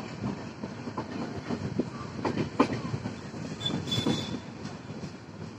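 Passenger train coach heard from inside while running along the track: steady rumble with frequent clattering knocks of the wheels and running gear. A brief high-pitched wheel squeal comes just before four seconds in.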